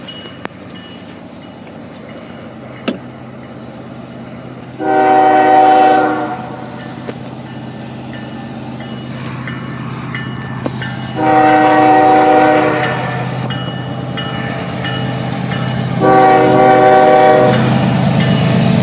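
Union Pacific GE ES44AC diesel locomotive's air horn sounding three long chord blasts about five to six seconds apart, over the low rumble of the train growing steadily louder as it approaches.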